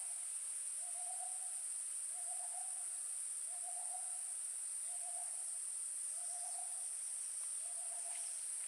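A wild animal's hooting call in forest: one short, even note repeated about once a second, eight times in a row. A steady high insect drone runs underneath.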